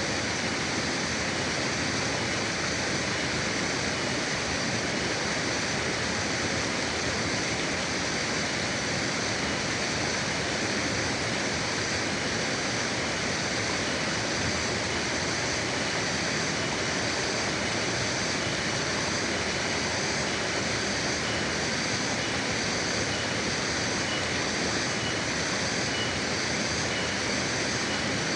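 River water rushing steadily over rocks, an even continuous roar of flowing water, with faint high pulsing tones.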